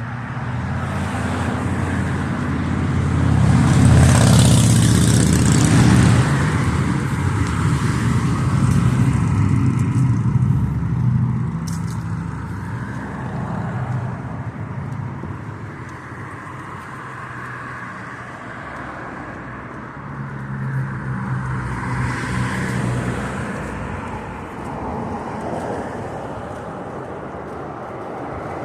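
Street traffic with a steady engine hum. A vehicle passes loudly about four seconds in, and another passes about twenty-two seconds in.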